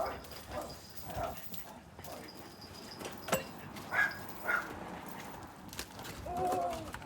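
A dog barking in short yaps, several times, with one sharp knock about halfway through.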